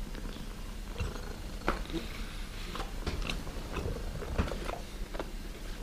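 Close chewing with scattered small clicks and snaps, over a steady low hum.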